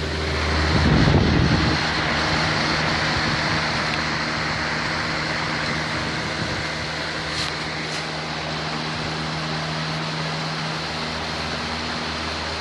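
Electric box fan running steadily with a steady hum, its intake partly blocked by cardboard, about 65% covered, so airflow is restricted as in a clogged condenser coil. A louder low whoosh comes about a second in, and two faint clicks come later.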